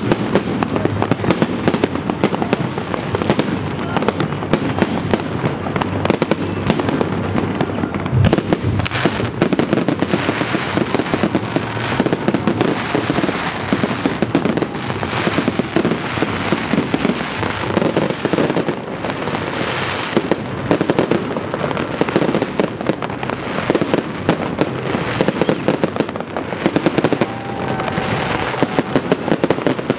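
Fireworks display: a dense, unbroken barrage of bangs and crackling from aerial shells and ground fountains.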